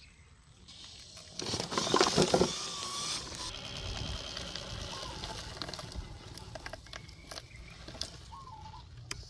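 Small electric motor of a homemade RC dump truck running with a whirr, with a louder rattling burst about a second and a half in.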